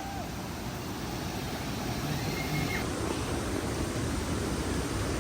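Steady rush of the waterfall's falling water, growing gradually louder.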